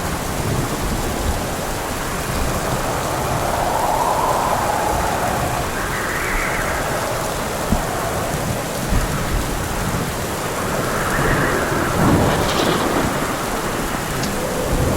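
Thunderstorm: steady rain pouring down with thunder rumbling.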